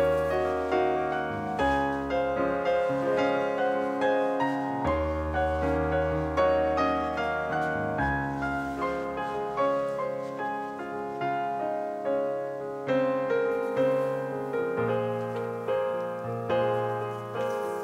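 Background solo piano music: a calm piece with a melody of repeated notes over held bass notes that change every couple of seconds.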